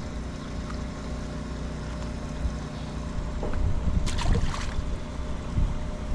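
Boat engine idling with a steady low hum, with a few brief sharp knocks or splashes about four seconds in.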